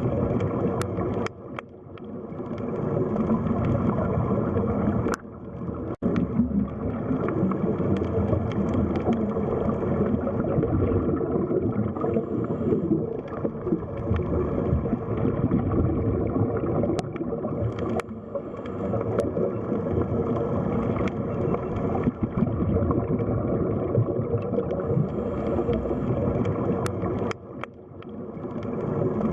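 Underwater sea ambience: a steady, muffled rush of gurgling water, with a few faint sharp clicks. The level dips briefly a few times.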